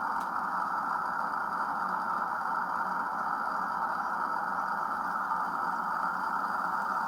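Steady hiss from a small live-steam test rig under pressure, as a Mamod double oscillating cylinder engine is first given steam. No regular beat from the cylinders can be picked out.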